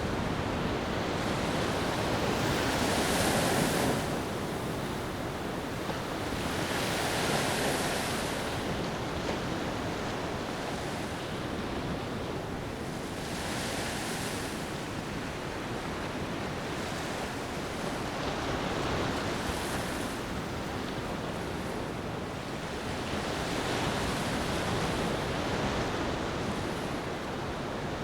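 Ocean surf washing onto a beach: a continuous hiss of water, swelling as a wave breaks every five seconds or so.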